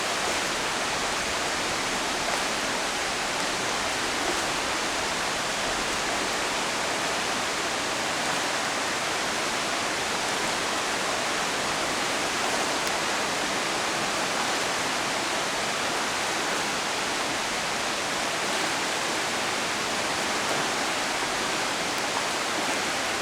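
A swollen river in flood rushing fast and high, a steady, even roar of moving water.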